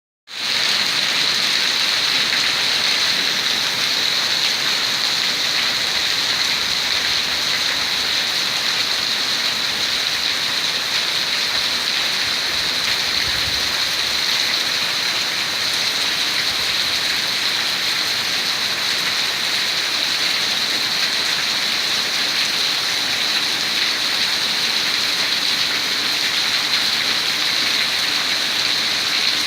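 Rain from a hurricane falling steadily and evenly, with no let-up.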